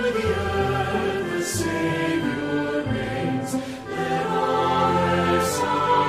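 Choir singing a Christmas cantata, in long held chords. The 's' sounds of the words hiss out together about every two seconds.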